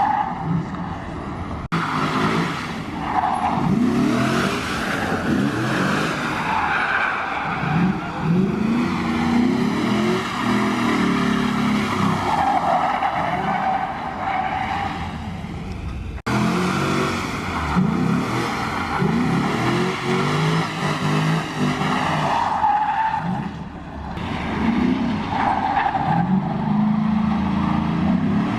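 Drift cars sliding: engines revving up and down in repeated rising and falling sweeps, with tyre squeal. The sound breaks off abruptly twice.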